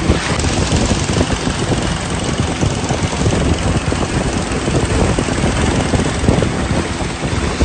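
Waterfall rushing steadily: a dense, even wash of falling water with a strong low rumble.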